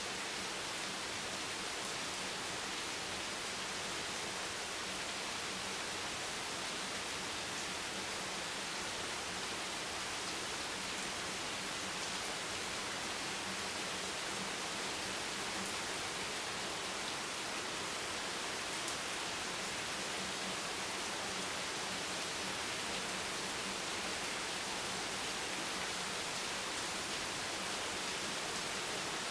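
Steady rain: an even, unbroken hiss with no distinct drops or thunder.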